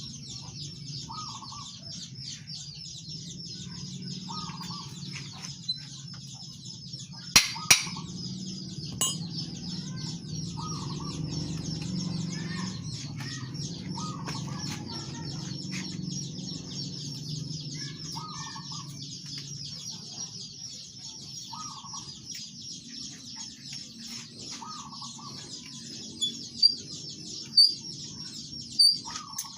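Birds chirping and clucking over a steady high-pitched chirring, with short clucking calls every second or two. A few sharp knocks come twice, once about a third of the way in and again near the end.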